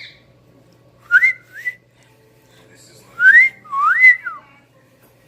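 A few whistled notes: a short one at the start, two quick rising whistles about a second in, then a longer phrase that rises, dips, rises again and falls, about three seconds in.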